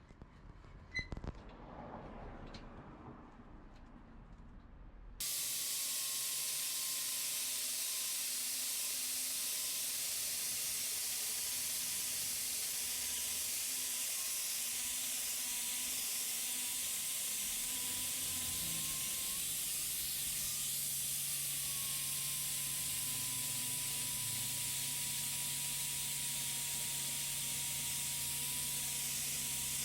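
A few light metallic clicks, then about five seconds in a loud, steady hiss like a jet of air or gas starts abruptly and runs on, with a faint whistling tone under it.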